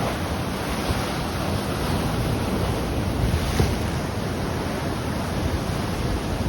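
Sea surf washing on the shore in a steady rush, with wind buffeting the microphone in irregular low gusts.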